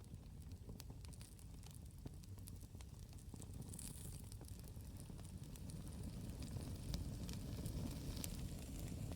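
Wood campfire crackling, with scattered sharp pops and snaps over a low, steady rumble.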